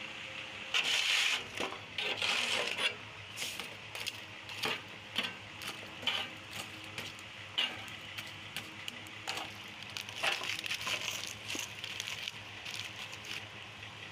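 Irregular crunching and scraping with sharp clinks of hard pieces, loudest in bursts about a second in, around two and a half seconds, and around ten seconds.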